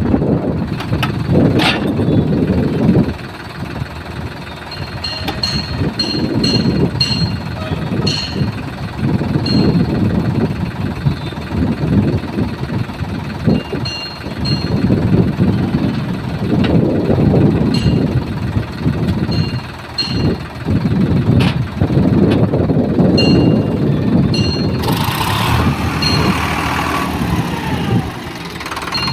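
Tractor engine running, its level swelling and dipping every few seconds, with scattered sharp clicks and knocks over it. Near the end a brighter hissing noise joins in.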